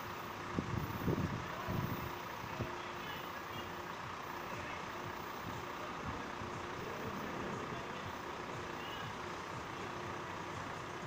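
Passenger train running away along the tracks into the distance, a faint steady rumble, with a few low thumps in the first two seconds.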